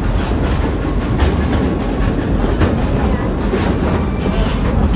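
Steam-hauled passenger train riding the rails: a steady, loud rumble of the cars rolling on the track with faint clatter of the wheels.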